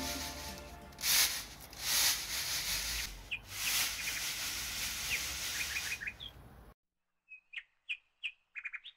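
Small songbirds chirping in short calls, including a quick run of four chirps, over a rushing noise that swells a few times and then cuts off abruptly about two-thirds of the way through, leaving only the chirps.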